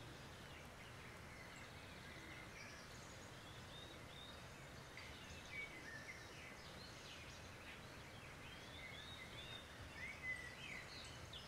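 Near silence: a faint, steady background hiss with scattered short bird chirps, mostly in the second half.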